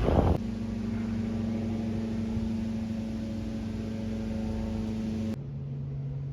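A steady machine hum holding one pitch, which switches abruptly to a lower, quieter hum about five seconds in.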